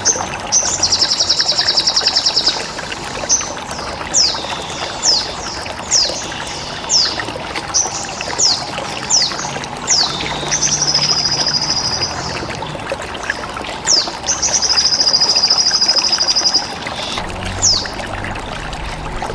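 Bird-training audio of a sogon bird: a series of sharp, high, downward-sweeping chirps, roughly one or two a second, broken three times by long buzzy trills, over a steady background of running, trickling water.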